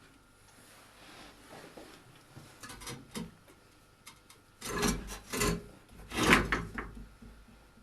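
Scraping and rubbing handling noises, like a tool or object being moved against a hard surface, in three short clusters, the last the loudest.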